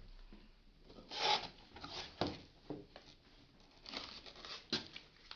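Packaging and plastic vacuum-cleaner parts being handled during unboxing: scattered rustling and rubbing with a couple of sharp clicks.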